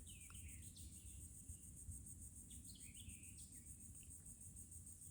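Faint woodland background of insects trilling in a steady, finely pulsing high drone, with a few short soft bird chirps.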